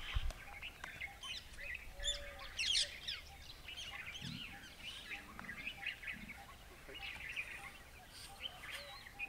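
Several small birds chirping and calling over one another in quick, overlapping notes, with a soft low thump just after the start.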